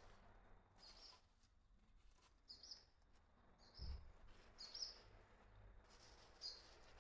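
Faint, short high bird chirps repeated about once a second, with a soft low thump near the middle.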